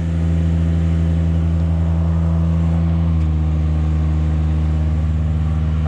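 Engine of a tracked lift running steadily, its note dropping slightly about three seconds in.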